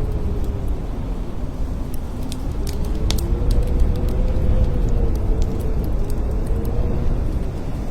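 Blizzard wind blowing hard: a deep, steady rumble with a howling tone that slowly rises and falls in pitch, and scattered faint ticks over it.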